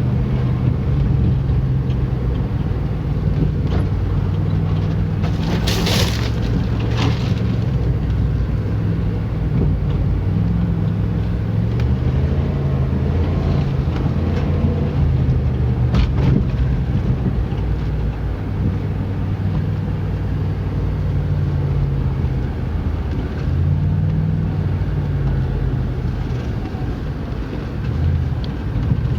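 An old Jeep's engine running while driving, its pitch rising and falling with the throttle, with a few short sharp noises about six, seven and sixteen seconds in.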